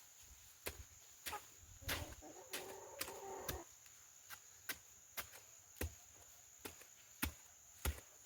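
Tall weeds being broken down by hand: a steady series of sharp snaps, roughly one every half-second or so. A high, steady insect buzz runs underneath.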